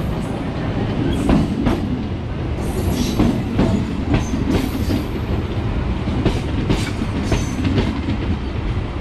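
An electric multiple-unit local train passing close alongside on the next track. Its wheels give a steady rumble and click sharply over the rail joints, with a few faint high squeals.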